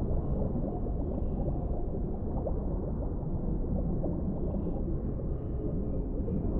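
Underwater deep-sea ambience: a steady low rumble and wash of water, with small scattered ticks like bubbles.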